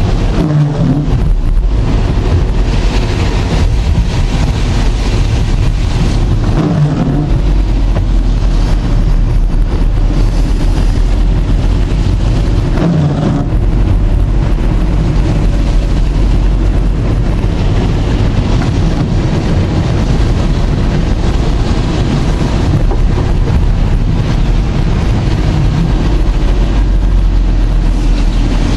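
Strong tropical-storm wind buffeting the microphone, a loud, steady rumble.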